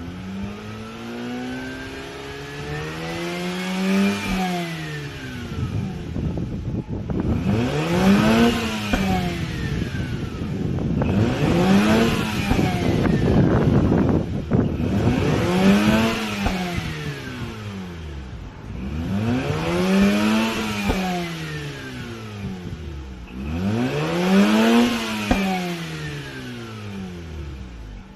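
Mazda RX-8's twin-rotor rotary engine revved about six times in a row. Each rev climbs and falls back over a few seconds; the first one rises more slowly.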